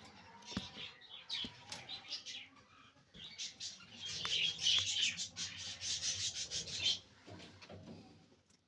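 Pet budgerigars chattering in rapid, scratchy runs of short high notes, busiest and loudest in the middle.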